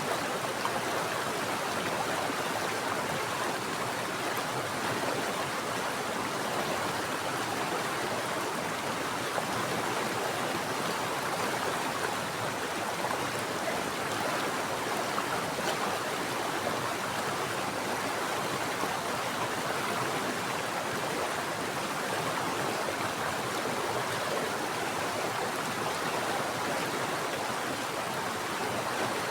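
Mountain stream of water flowing and splashing over rocks, a steady rushing noise.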